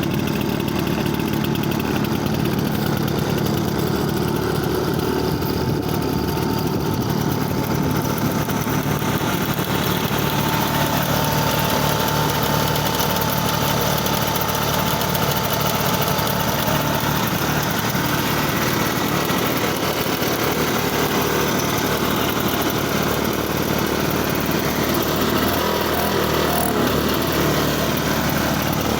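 1966 Ski-Doo Olympic snowmobile's two-stroke engine idling steadily just after a cold start.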